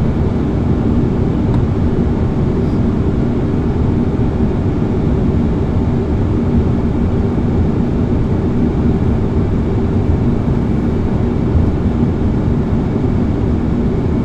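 Steady flight-deck noise of an Airbus A330-300 on final approach with flaps at full: an even rush of airflow and engine noise with a low, steady drone underneath.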